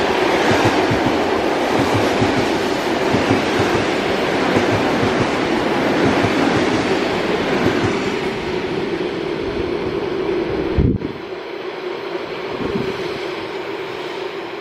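Train passing on the line: wheels clacking and rumbling on the rails with a steady hum, the noise fading from about eight seconds in as it moves away. A single sharp thump about eleven seconds in.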